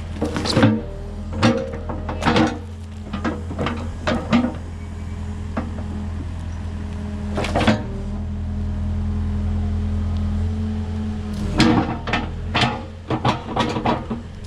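Excavator diesel engine running steadily. Over it come a series of sharp clunks and knocks from the machine working, several in the first few seconds and a cluster near the end.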